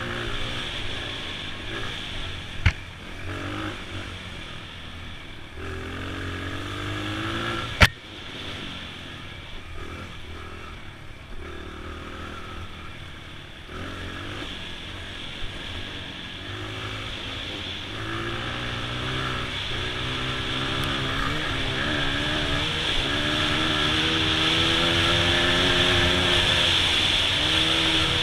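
2002 Honda XR100's single-cylinder four-stroke engine running under changing throttle, its pitch rising and falling, then held at higher revs and growing louder through the last ten seconds. Two sharp knocks cut through, about 3 and 8 seconds in, the second the loudest sound.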